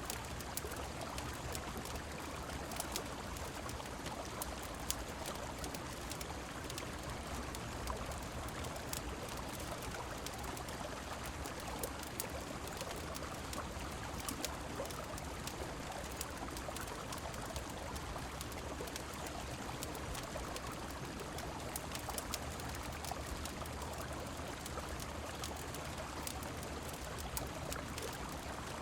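Steady rushing and trickling of a flowing river mixed with rain, with scattered sharp ticks and pops throughout.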